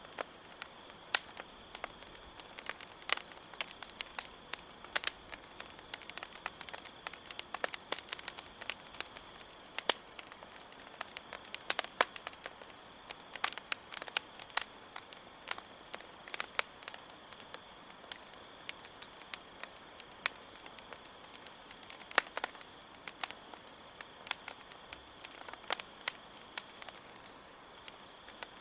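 Wood campfire crackling, with irregular sharp pops several times a second, over a steady high trill of chirping crickets.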